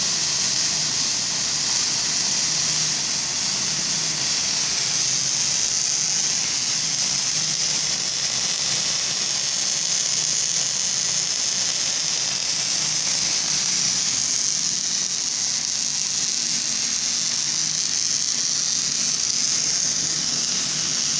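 Semi-automatic (MIG) welding arc running continuously as a homemade hardfacing machine deposits weld metal on its own: a steady, unbroken hiss.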